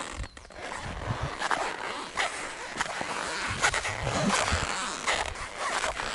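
Footsteps in boots on wet, muddy ground, an irregular run of thuds and scuffs with the boots squeaking.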